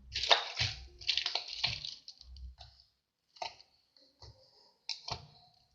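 Clear slime worked by hand, giving dense bursts of small clicks and pops for about two seconds, then a few scattered clicks.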